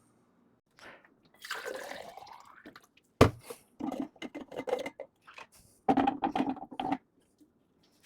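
A wet sliding scrape with a falling squeak, then a sharp knock about three seconds in, followed by two quick runs of clatters and taps: hard objects being handled, with a dripping, watery quality.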